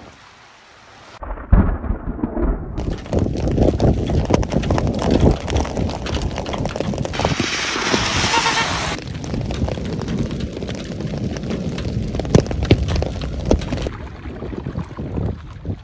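Heavy storm downpour: a loud, dense rush of rain with many sharp hits. It starts suddenly about a second in and eases near the end.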